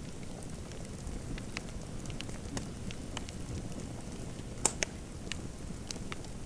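Fireplace fire crackling: a steady low rumble of burning with scattered sharp crackles, and two louder pops in quick succession a little past the middle.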